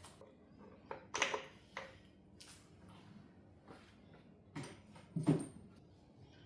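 Scattered clinks and knocks of metal tools and parts being handled during an engine teardown. There are about half a dozen separate hits, the loudest near the end with a short metallic ring.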